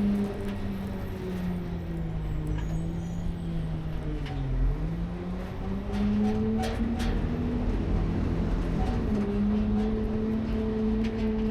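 Rear-load garbage truck's engine running, sinking in pitch about four seconds in, then revving up and holding a higher speed, with a few sharp knocks along the way.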